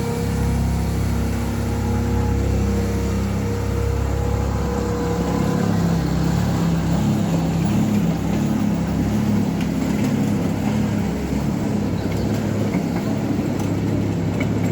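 Miniature railway train running, with a steady low engine drone.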